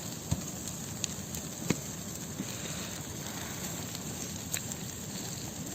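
Large bonfire of branches burning loudly: a steady rushing noise with a few sharp pops of crackling wood.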